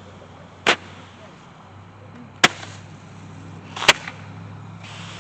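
A handheld Roman candle firing: three sharp pops, about a second and a half apart, each with a short trailing hiss.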